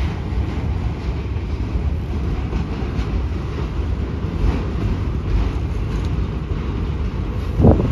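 Freight train of autorack cars rolling past, a steady low rumble of steel wheels on rail with a few faint clicks. Near the end there is a brief, louder low thump.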